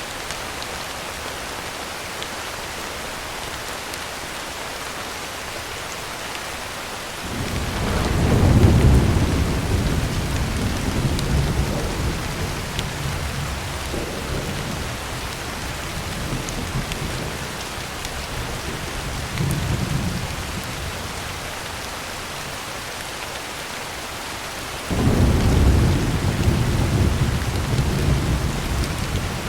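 Heavy rain falling steadily on a tin roof, with two long rolls of thunder: one building about seven seconds in and fading slowly, the other starting abruptly near the end.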